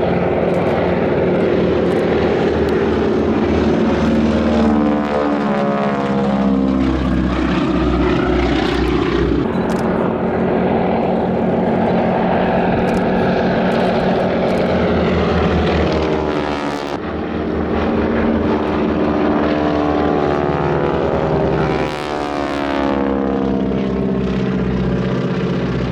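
Two Super Stearman biplanes' radial engines and propellers at full power, with the rasping note of propeller tips going supersonic. The pitch slides down and back up several times as the aircraft pass and turn.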